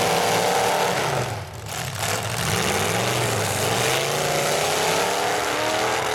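Demolition derby cars' engines revving hard, the pitch climbing and falling as the cars push against each other. The sound briefly drops about a second and a half in.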